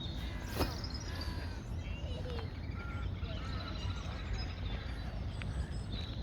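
Several birds chirping and calling, with many short high notes and gliding calls, over a steady low rumble.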